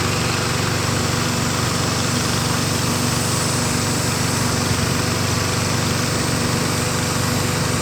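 Small boat engine running steadily at an even speed, with no change in pitch or level.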